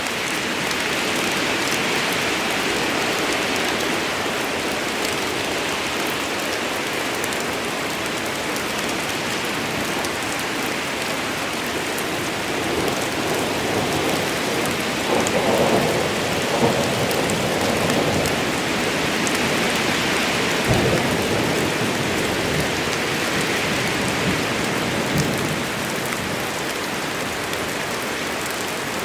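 Steady rain falling in a thunderstorm, with a roll of thunder rumbling up and fading about halfway through.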